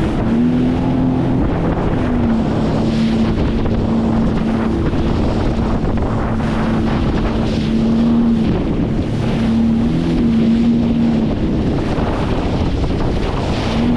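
Sea-Doo jet ski engine running at cruising speed over small ocean waves, its pitch rising briefly and settling a few times as the throttle changes, with wind buffeting the microphone.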